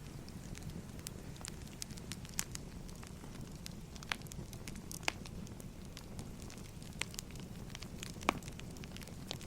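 Wood fire burning: a steady low rush with scattered sharp crackles and pops, the loudest near the end.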